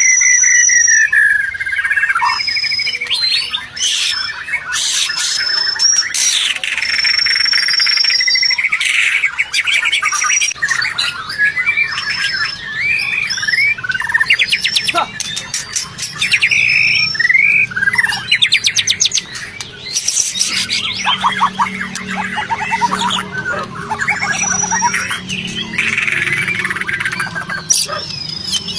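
White-rumped shama (murai batu) singing a long, varied song of clear whistles, sliding notes, rapid trills and harsh chattering phrases.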